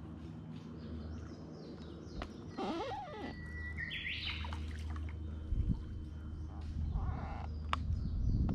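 A bird calling about three seconds in: a held whistled note that breaks into quick higher notes, over a steady low hum. A couple of sharp clicks follow later.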